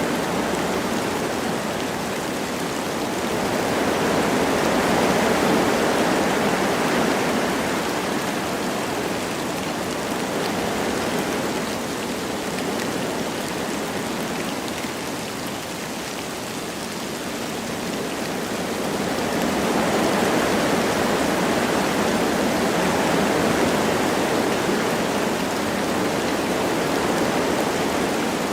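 Wind rushing through forest trees with light rain, swelling in gusts about four seconds in and again near twenty seconds, easing between.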